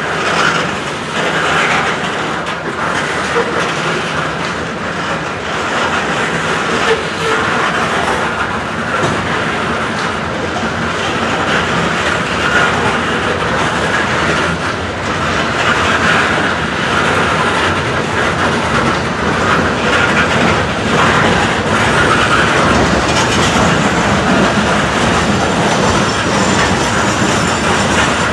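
A train's cars rolling past on the track, steel wheels clattering over the rails in a steady, continuous run.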